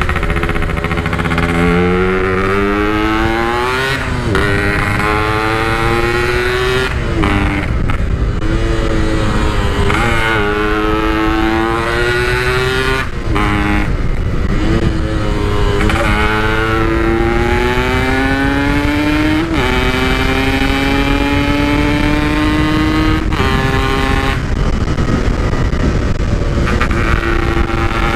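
Yamaha RX-King's stock, unported 135 cc two-stroke single, ridden at full throttle through a stock-style 'Packing Power' exhaust. The engine note climbs in pitch and drops at each gear change, about eight times in a row, over steady wind noise.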